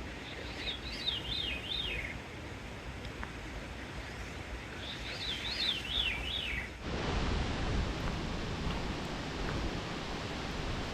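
A songbird singing two short phrases of quick up-and-down whistled notes that slide lower over each phrase, about four seconds apart. About seven seconds in, a louder steady rushing noise abruptly takes over.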